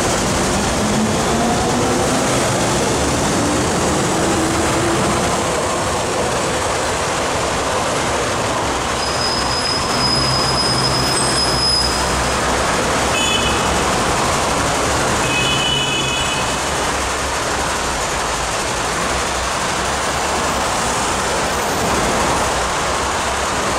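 MTR M-Train electric multiple unit running through the station without stopping: a rising motor whine as it passes, then a steady rail rumble as it runs off, with a few brief high squeals about ten and fourteen to sixteen seconds in.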